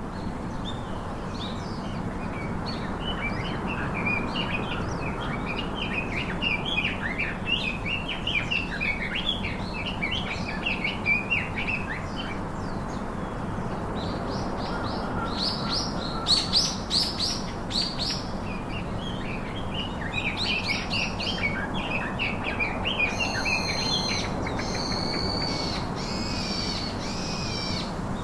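Several birds chirping and calling together, a busy mix of quick chirps with a louder run of sharp high calls about halfway through. Near the end, one bird gives a string of repeated, evenly pitched calls, over a steady background hiss.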